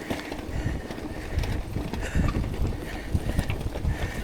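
Mountain bike rolling along a dirt trail, with wind buffeting the action camera's microphone and the tyres and bike rumbling over the ground in irregular low thumps.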